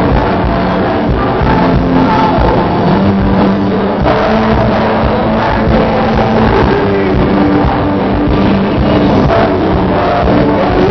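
Live worship music: a band playing with singing, loud and continuous.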